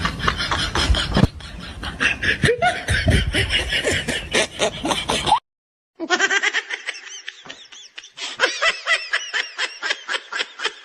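Laughter: a long run of rapid ha-ha pulses, broken by a brief total silence about five and a half seconds in.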